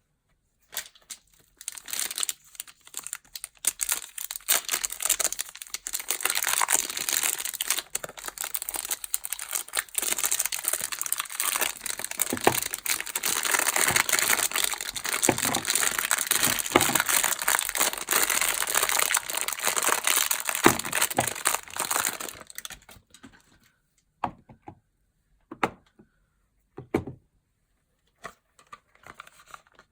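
Packaging crinkling and tearing continuously for about twenty seconds as soap bars are unwrapped, then a few separate light taps near the end.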